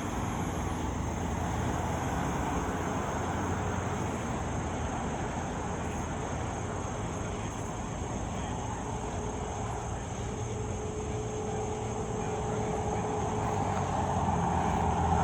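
Steady highway traffic noise, tyres and engines of passing vehicles, with a vehicle growing louder as it approaches near the end.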